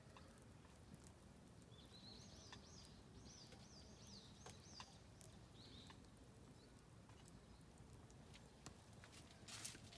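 Faint crackling of an oak-log campfire, sparse small pops with a few louder ones near the end. Over it a songbird repeats a short, high chirping phrase several times, from about two to five seconds in.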